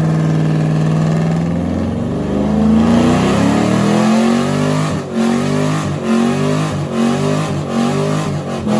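Diesel pickup truck engine revving hard. It holds steady, climbs in pitch about two seconds in, then surges and drops back about once a second.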